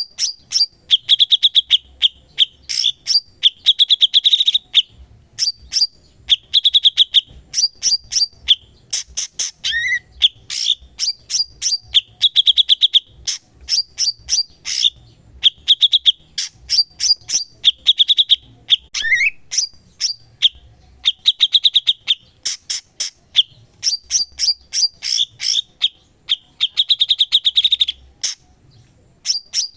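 A cucak cungkok singing hard, in repeated bursts of fast, chattering trilled notes every second or two, with a short rising note twice.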